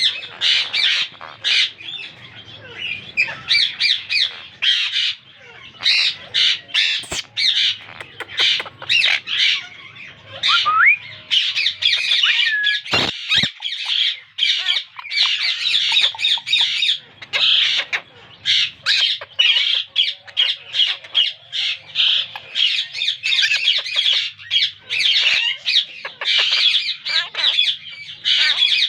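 Monk parakeets (Quaker parrots) squawking and chattering in rapid, harsh, repeated calls with no let-up. There is a rising whistle about ten seconds in and two sharp knocks a few seconds later.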